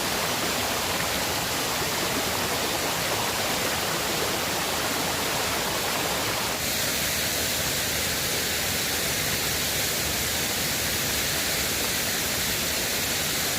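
River water rushing steadily, with no pauses or clicks. About halfway through the rush changes slightly, with less of its middle range.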